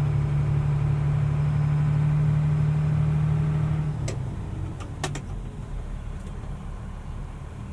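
Mercedes-Benz Unimog U500's turbo diesel engine running steadily under way, heard from inside the cab, then easing off about four seconds in as the truck slows, with a few sharp clicks around then.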